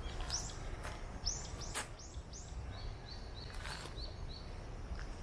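Small birds calling: a run of four arched high chirps, then a quicker string of about seven short chirps. Underneath is a steady low rumble of background noise, with a few sharp clicks.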